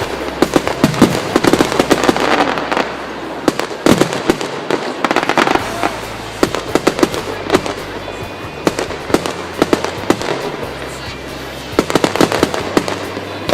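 Fireworks display: a rapid, continuous run of sharp bangs and crackling shell bursts.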